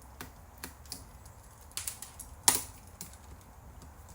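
Scattered small clicks and taps of parts of a Sony SLV-393 VCR's tape mechanism being worked on by hand, with a few quick clicks just before the middle and one sharp, loud click about two and a half seconds in.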